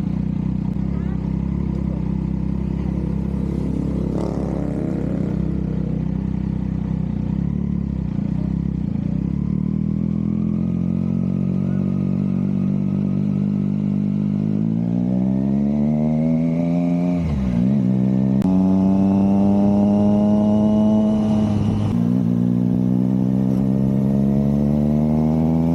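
Triumph Trident 660's 660 cc inline-three engine running, steady at first, then climbing slowly in engine speed from about ten seconds in. The pitch dips sharply and briefly twice, once about two-thirds of the way through and again a few seconds later, then climbs again.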